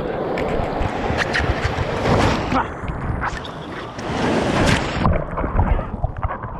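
Surf water rushing and splashing, with wind buffeting the microphone, swelling twice.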